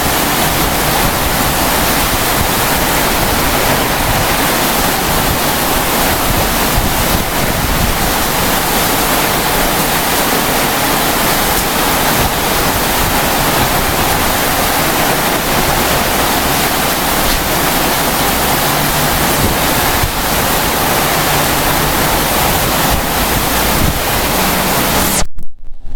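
Torrential storm rain pouring down, a loud steady rush that cuts off abruptly near the end.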